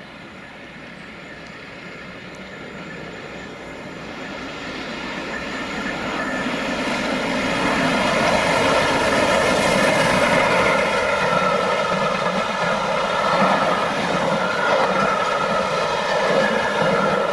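Steam locomotive 60163 Tornado, an A1 Pacific, and its train approaching and passing at speed. The sound grows steadily louder over about eight seconds, then stays loud.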